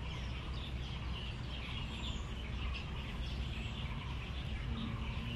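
Small birds chirping in the trees, many short scattered calls, over a steady low rumble of background noise.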